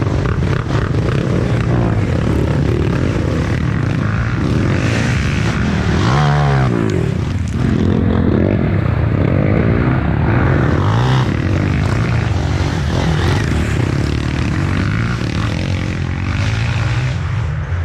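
Off-road motorcycle engines running and revving, the pitch rising and falling as throttles open and close, with more than one bike heard at once about six seconds in.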